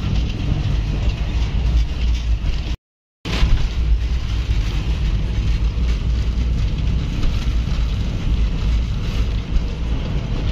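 Passenger train running, a steady heavy rumble heard from inside the coach. The sound cuts out completely for a moment about three seconds in, then resumes.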